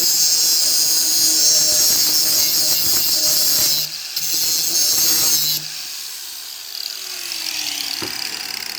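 Power saw cutting through a steel lawnmower-handle tube, with a brief break about four seconds in. About five and a half seconds in the cutting stops and the motor spins down with a falling whine, and a sharp click comes near the end.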